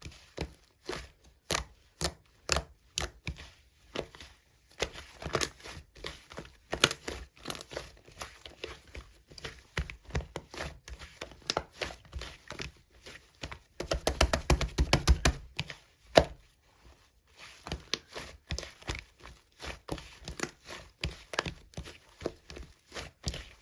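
Slime being squished and pressed by hand, making a steady stream of sticky clicks and pops, with a fast dense run of pops about two-thirds of the way through.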